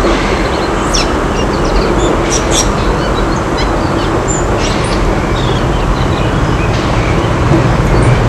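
A small railway locomotive's engine running steadily, with birds chirping throughout.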